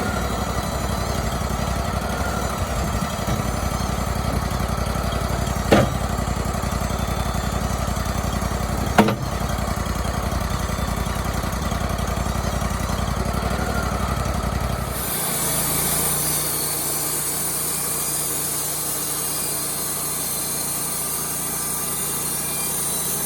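Wood-Mizer LT35HD portable band sawmill running steadily, with two sharp knocks about six and nine seconds in. About fifteen seconds in the low rumble falls away and a high hiss takes over.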